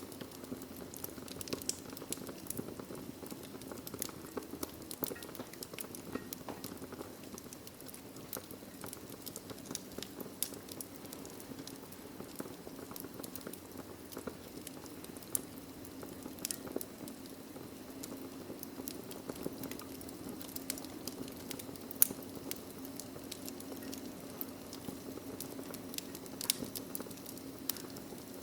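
Wood fire burning in a fireplace: a steady low rush of flames with frequent small crackles and pops from the logs, one sharper pop about 22 seconds in.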